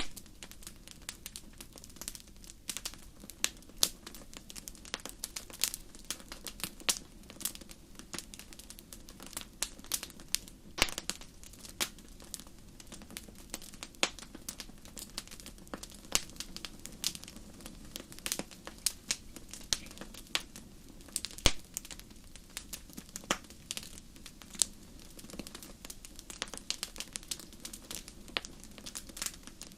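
Wood fire crackling in a fireplace: irregular sharp pops and snaps, several a second, over a steady low background.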